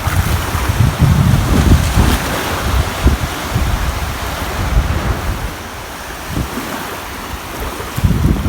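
Ocean surf: waves breaking and washing up a shore, loud at first, easing off in the middle and swelling again near the end.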